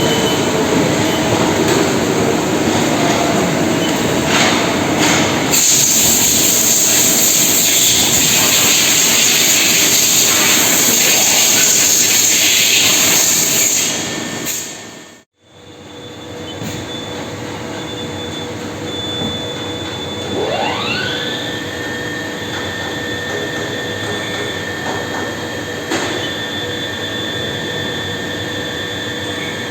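HAAS ST-30 CNC lathe and workshop machinery running with a loud, steady noise that fades out about halfway through. Then comes a quieter running sound in which the spindle spins up, a whine rising over about a second to a steady high tone.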